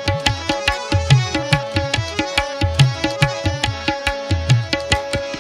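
Instrumental interlude of a Sufi folk song: a hand drum plays a fast rhythm of sharp strokes with deep bass strokes that bend in pitch, over a steady held melodic note.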